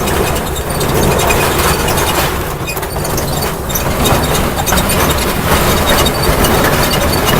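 Small ride-on train running along its track: a steady rumble of the motor and wheels on the rails.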